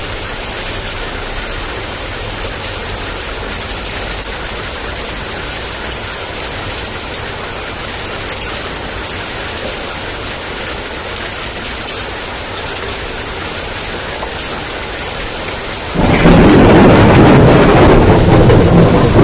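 Steady heavy rain on a surface, then about three-quarters of the way through a loud rumble of thunder comes in suddenly and carries on to the end.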